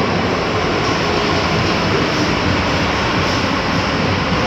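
Steady rolling and rumbling noise heard inside a British-built Metro-Cammell MTR electric multiple unit running underground on the Island Line.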